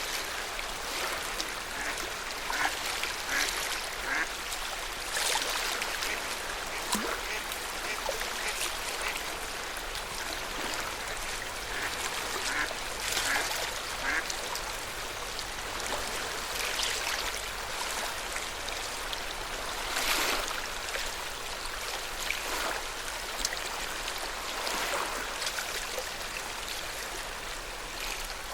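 Lake water lapping and splashing in small waves: a steady wash with irregular splashes every second or two.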